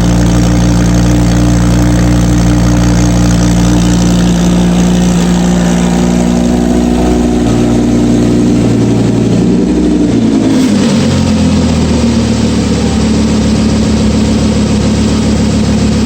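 Audi R8 V10 with a Capristo exhaust idling, loud and steady. Between about nine and eleven seconds in the idle speed drops and settles to a lower, even idle.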